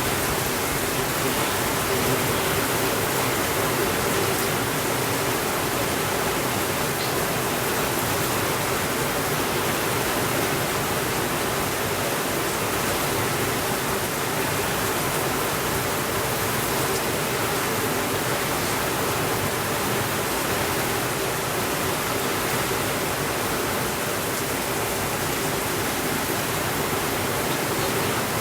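Steady rainfall, an even hiss that holds the same level throughout, with no thunder.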